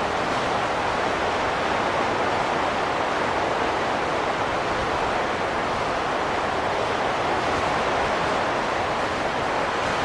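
Steady rushing wind: an even noise that holds the same level throughout, without distinct gusts or a howling pitch.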